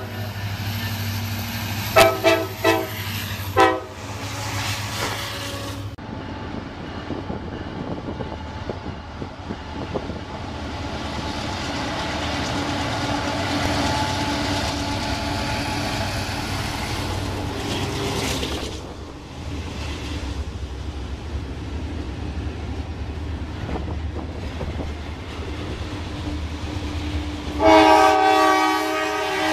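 Train locomotive air horn giving two short blasts, then a train running past with a steady rumble of wheels on rail, and a long horn blast near the end.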